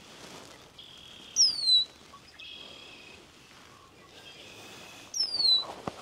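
A bird calls twice, about four seconds apart: each call is a loud, clear whistle sliding down in pitch, lasting about a third of a second. Fainter, level high notes held for half a second or more sound between the calls, over a light outdoor hiss.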